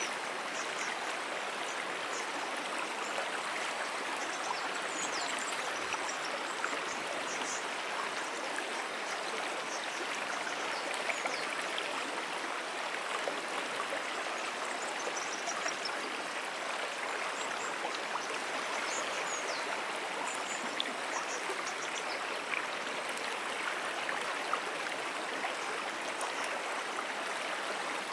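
Moonan Brook, a small perennial stream, flowing steadily: an even, unbroken rush of running water.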